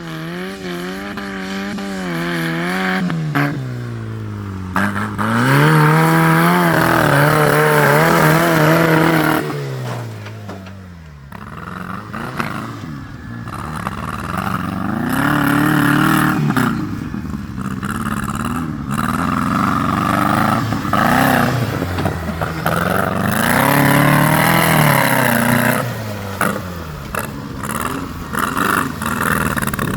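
Tractor engine revving up and down over and over, its pitch climbing and dropping with each burst of throttle.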